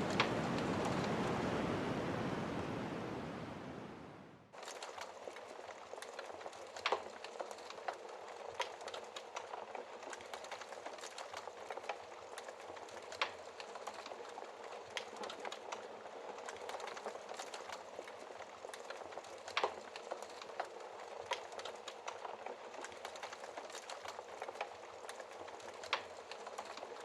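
Wind of a snowstorm blowing, fading away over the first four seconds and cutting off, followed by a wood fire crackling in a fireplace: a soft hiss with irregular sharp pops and snaps.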